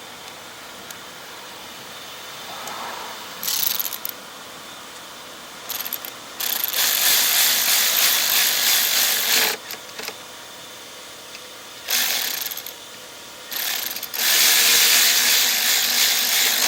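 Power tool, such as a cordless driver or electric ratchet, running in bursts to tighten the mounting screws of a new ignition coil on a lawn mower engine. There are a few short spurts and two longer runs of two to three seconds each.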